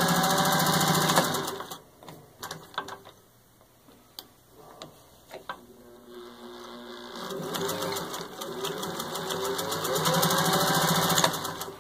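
Electric Singer 201-2 sewing machine stitching through six layers of denim at full speed, stopping about two seconds in. After a few light clicks it starts again slowly and speeds up steadily to full speed, showing its smooth speed control, then stops near the end.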